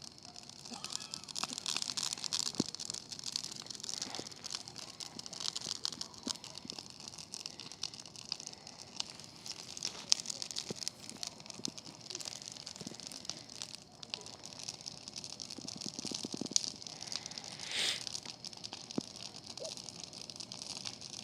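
A bonfire of burning wood crackling and popping, a dense run of sharp cracks.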